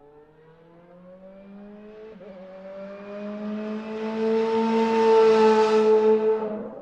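Car engine accelerating hard: its pitch climbs, drops at a gear shift about two seconds in, then climbs again as it grows much louder, and cuts off suddenly near the end.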